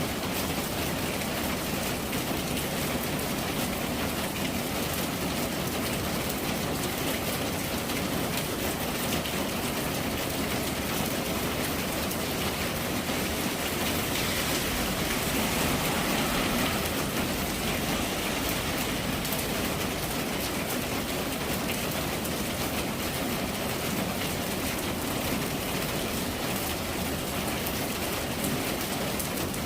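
Steady rain falling, a continuous even hiss that swells a little about halfway through.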